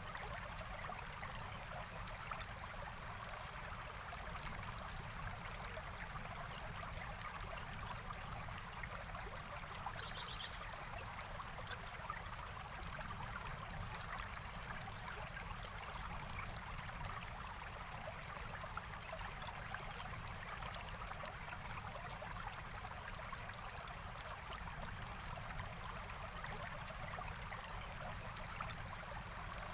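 Forest stream flowing steadily over stones, an even rushing trickle. A brief high bird call cuts in about ten seconds in.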